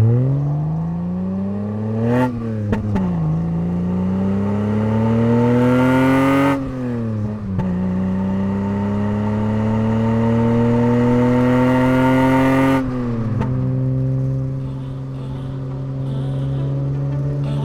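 BMW 325is's rebuilt M20 straight-six accelerating hard through the gears: the revs climb, drop at three upshifts about two, six and a half and thirteen seconds in, then settle to a steady cruise.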